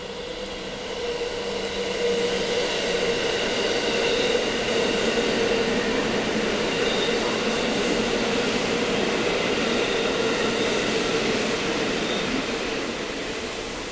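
JR West 207 series electric train running through the station without stopping as an out-of-service run: the sound of it passing builds over about two seconds, holds steady with a whine over the rumble of the wheels, and eases off near the end.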